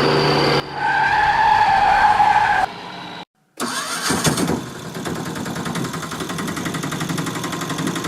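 Vehicle engine sound effects in short edited pieces: a held pitched tone from about a second in, a sudden cut to near silence, then an engine running with a fast rattle.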